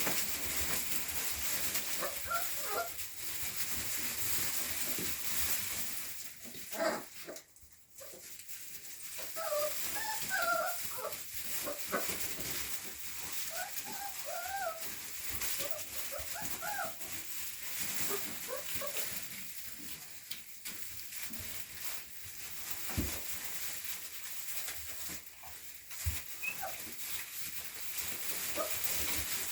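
Rottweiler puppies whimpering, with many short, high squeaks scattered throughout over a steady hiss.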